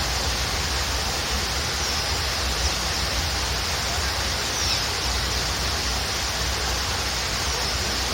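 Waterfall rushing steadily, with a few faint, short, high bird chirps every two to three seconds.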